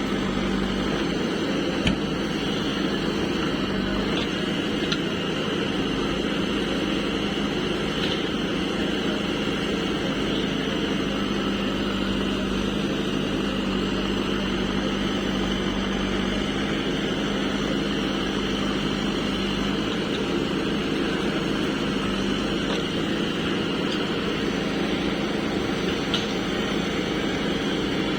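Heavy diesel engine running steadily at an even speed, with a couple of brief knocks.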